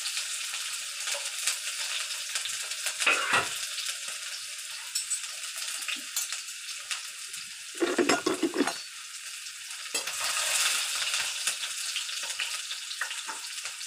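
Chopped onion sizzling in hot oil in a kadhai on a gas stove, a steady frying hiss. There is a short knock about three seconds in and a louder clatter around eight seconds.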